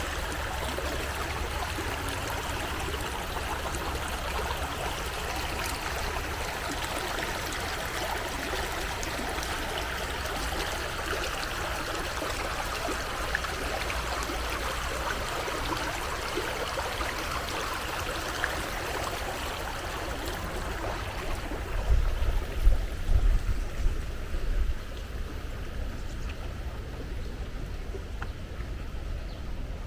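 A brook flowing over stones: a steady rushing, gurgling hiss that fades about two-thirds of the way through. Low rumbling thuds follow, strongest a few seconds after it fades.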